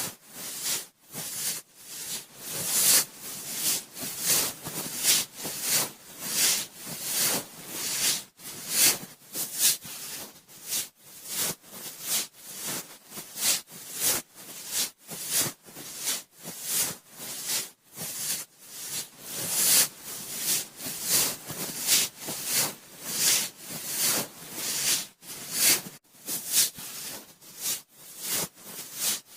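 Cotton swab swirled in the ear of a binaural microphone: close, scratchy rubbing strokes in a steady rhythm of about two a second.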